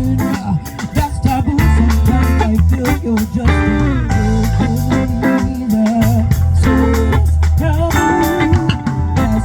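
A live band playing a rhythmic, reggae-tinged groove, with guitar, bass and drums keeping a steady beat.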